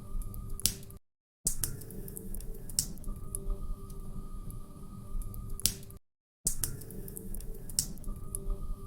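Wood fire crackling, with irregular sharp pops and snaps over a low steady rumble. The sound cuts out completely for a split second twice, about a second in and about six seconds in.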